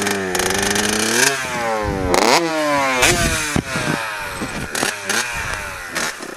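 A pit bike's small single-cylinder engine revved in repeated throttle blips, its pitch rising and falling several times, sounding rough. The rider takes the engine to be flooded.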